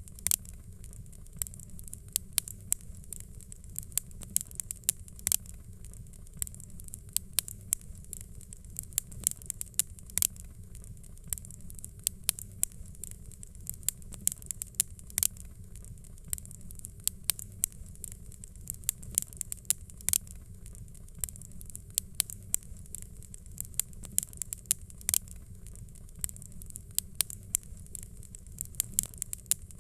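Wood fire crackling and popping: frequent irregular sharp pops and snaps over a low steady rumble.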